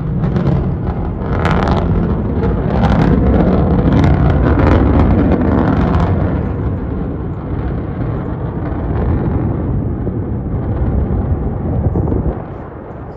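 SpaceX first-stage booster's engine during its landing burn: a deep, crackling rumble, loudest over the first six seconds, then easing off and dropping away sharply about twelve seconds in.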